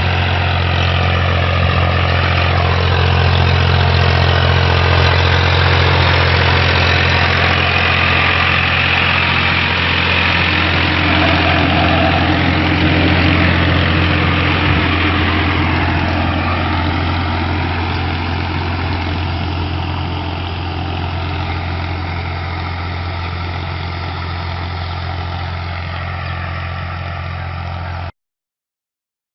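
Tractor engine running steadily with a strong low hum. The sound cuts off abruptly near the end.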